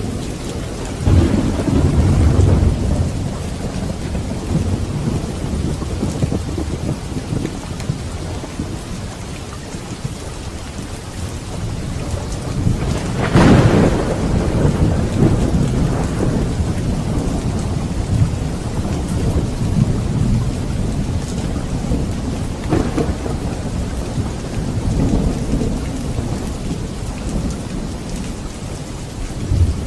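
Steady rain with rolls of thunder: a low roll about a second in, the loudest, sharpest peal about halfway through, and weaker rolls near the end.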